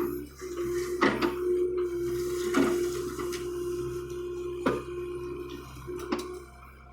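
John Deere excavator working: a steady whine from the machine, broken by short gaps, with four sharp metallic clanks spread through it.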